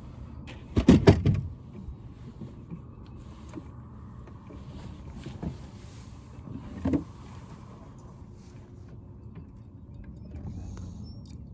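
A quick cluster of sharp knocks about a second in and a single knock near seven seconds, over a steady low mechanical hum.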